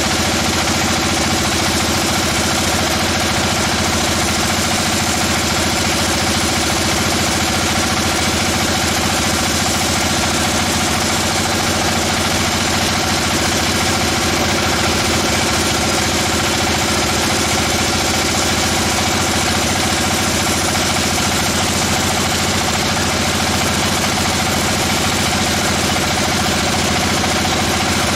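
Sawmill machinery running steadily: a continuous engine-like drone that holds one pitch and level throughout, with no cut starting or ending.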